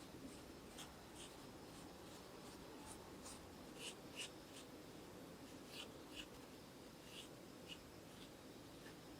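Faint scratching or scraping strokes, about a dozen of them at an uneven pace, over a steady low background hum.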